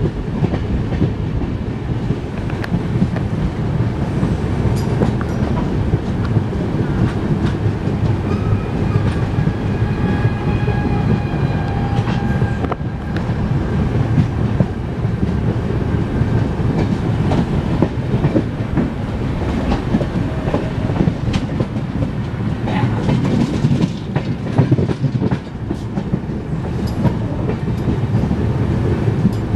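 Indian Railways passenger coach running at speed on the track, heard at an open window: a steady rumble of wheels on the rails with an irregular clatter of clicks over the rail joints and points.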